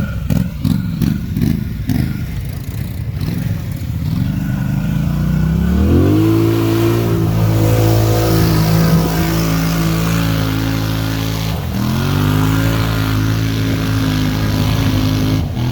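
Polaris Sportsman 850 ATV engine being worked hard. It starts at uneven, wavering revs, climbs in pitch about five seconds in and holds high revs, then dips briefly and climbs again before easing off at the end.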